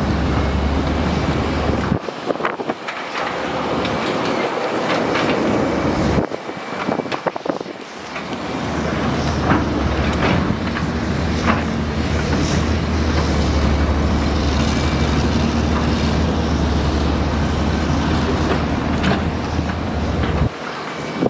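Heavy earthmoving machine's diesel engine running steadily under load, with scattered metallic clanks. The engine note breaks off briefly about two seconds in and for a couple of seconds around the six-second mark.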